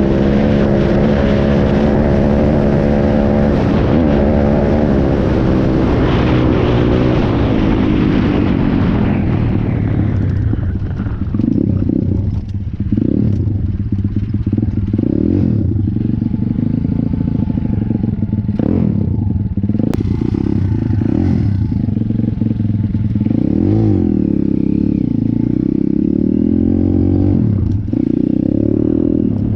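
Stomp 170 pit bike's single-cylinder four-stroke engine running hard at high revs, then easing off about ten seconds in. After that it runs lower, with several short throttle blips that rise and fall.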